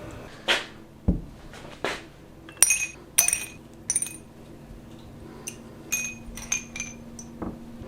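Small hard parts clinking and tapping together: about a dozen light knocks spread over several seconds, several of them ringing briefly.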